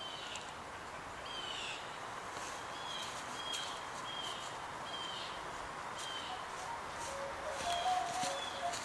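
A bird chirping again and again: short, slightly falling chirps about once a second, over a steady outdoor hiss of woodland ambience. From about seven seconds in, lower steady-pitched notes join.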